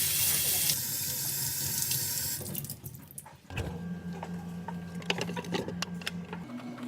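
Water running from a tap, a loud steady rush that tails off and stops after about two and a half seconds. It is followed by a low steady hum with a few small clicks.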